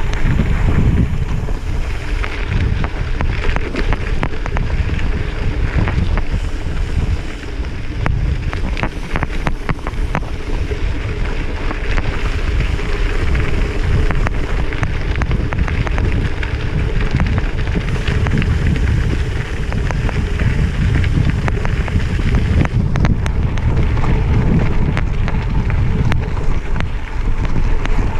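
Wind buffeting the microphone on a moving gravel bike, a loud low rumble throughout, with scattered clicks and rattles from the tyres running over gravel.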